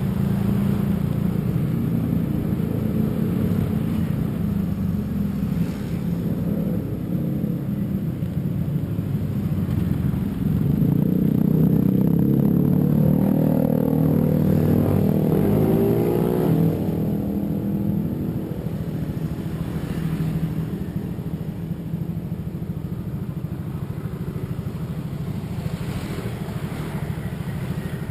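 Road vehicle engine and road noise while riding, a steady drone that grows louder for several seconds around the middle, with a pitch that slides up and down, before settling again.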